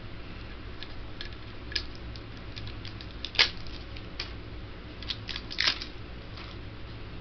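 Scattered sharp clicks and crackles from objects being handled, the loudest about halfway through and a quick cluster near the end, over a steady low hum.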